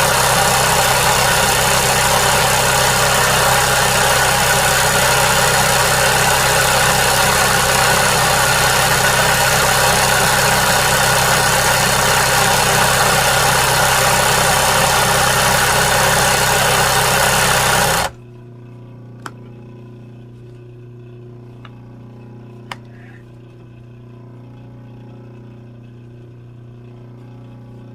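A machine running with a loud, steady noise and hum, switched off suddenly about eighteen seconds in. A faint lower hum and a few small clicks follow.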